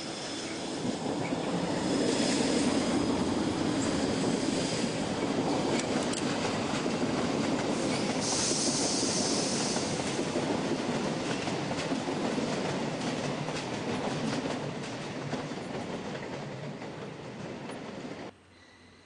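Electric-hauled passenger train rolling past on the tracks below, wheels running over rail joints and points. The noise swells over the first two seconds, a high wheel squeal comes in briefly about eight seconds in, and the sound cuts off suddenly near the end.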